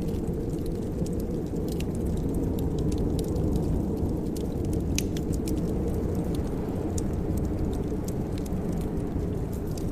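Wood fire crackling in a fireplace, scattered sharp pops and snaps over a steady low rumble.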